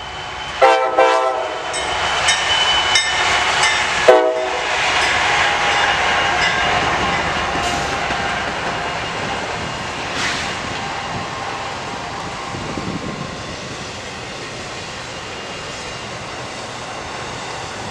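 Norfolk Southern freight train's locomotive horn sounding two blasts, the first about half a second long and the second short, followed by the train rolling past with rhythmic wheel clicks on the rail joints and a steady rumble that slowly fades.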